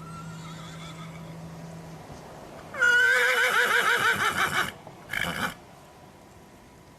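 Horse neighing: a loud, wavering whinny starting about three seconds in and lasting about two seconds, followed by a short second call.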